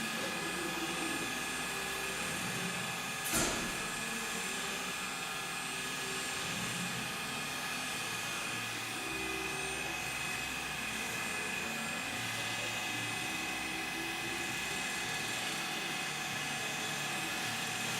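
Knife induction hardening machine running through its cycle: a steady whine with several constant high tones over a low hum. One sharp click comes about three and a half seconds in.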